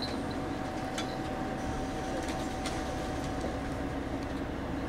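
Steady rumble and hum of a train standing at a station platform, with a thin steady tone that stops about three and a half seconds in and a couple of faint clicks.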